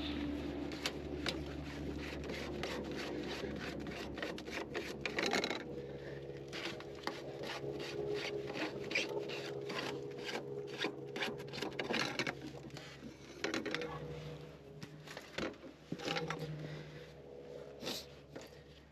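Scraping, rubbing and clicking of hand work with tools, repeated irregularly, over a steady low hum.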